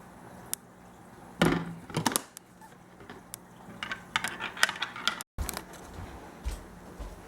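Irregular clicks, knocks and clatter of small objects being handled, over a faint steady hum. The sound cuts off for an instant a little over five seconds in.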